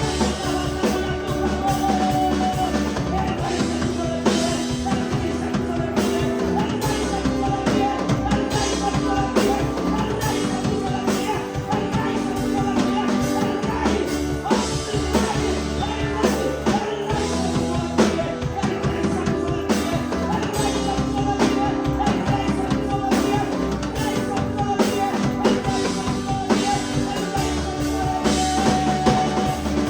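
Upbeat Spanish-language Pentecostal worship chorus music with a steady beat on drum kit, bass and guitar, and some singing over it.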